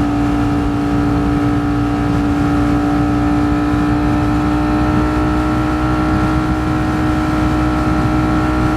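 Ducati Streetfighter V4 S's V4 engine running steadily at highway cruising speed, its pitch creeping up very slightly, over a low rush of wind and road noise.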